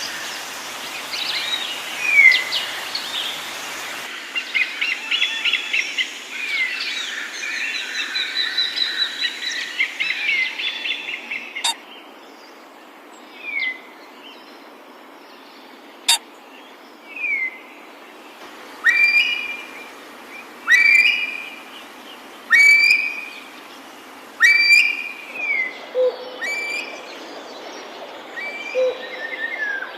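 Wild birds calling: short down-slurred whistled notes repeat about every two seconds, with a stretch of busy chattering calls early on and a run of louder, sharper calls later.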